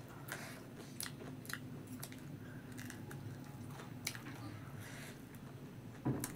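A person chewing a mouthful of food close to the microphone, with wet mouth smacks and scattered sharp clicks about once a second, and a louder smack near the end.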